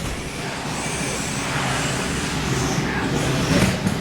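Radio-controlled monster trucks launching off the start and racing, a steady mix of motor and tyre noise.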